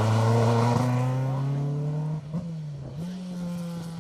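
Ford Escort Mk2 rally car engine pulling hard, its pitch climbing, then dropping sharply about two seconds in at a gear change before picking up again, growing fainter as the car moves away.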